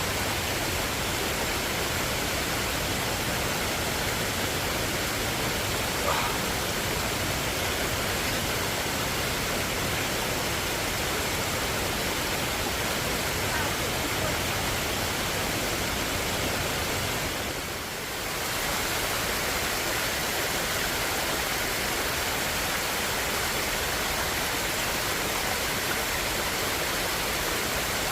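Water cascading down a tiered jungle waterfall: a steady rushing hiss that dips briefly once, about two-thirds of the way through.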